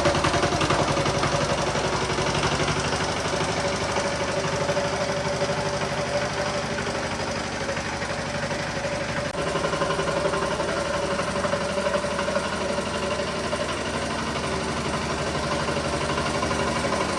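Small diesel engine of a walk-behind tiller running steadily at idle, with an even knocking beat.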